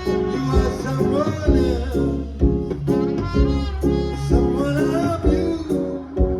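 Live band playing the song: short, evenly repeated chords over a steady kick-drum beat, with a bending melodic lead line above.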